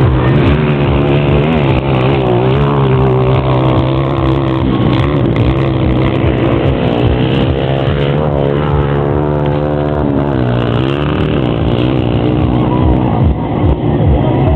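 Several 125 cc motocross motorcycles racing, their engines revving up and down and overlapping over a steady low engine drone.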